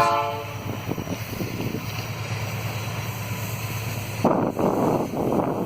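Train horn sounding a chord that cuts off about half a second in. Under it, the locomotive's engine drones steadily and low. A loud rush of noise comes about four seconds in.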